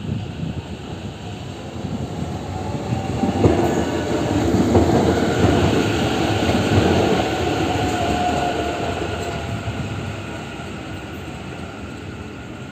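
Taichung MRT metro train pulling into the station: a rolling rumble of wheels on the rails that builds to its loudest a few seconds in, then fades as the train slows. A thin squeal sounds briefly past the middle.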